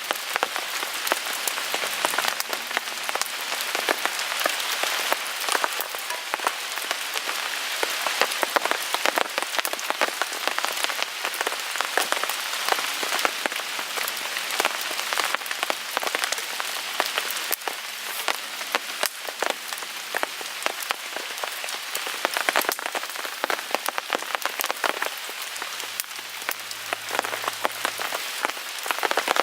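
Steady rain falling on a tarp, many close drops ticking, with a small wood fire crackling in a Picogrill 398 folding fire pit.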